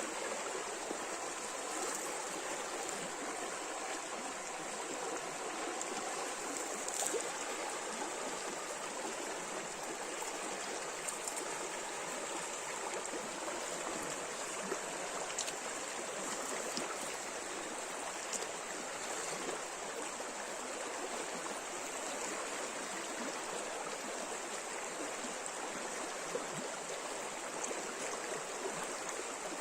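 A river running over shallow rapids: a steady rush of water with small splashes scattered through it.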